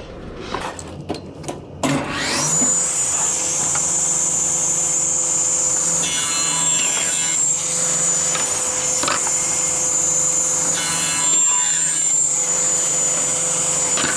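Sliding table saw started about two seconds in, spinning up and then running steadily with a high whine, its blade cutting through a hardwood cabinet top with a rougher note around six and again around eleven seconds. A few knocks of the board being handled come first.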